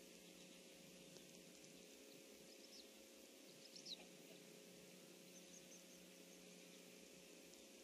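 Near silence: steady hiss with a faint low hum, and a few faint, short, high bird chirps, the clearest one about four seconds in.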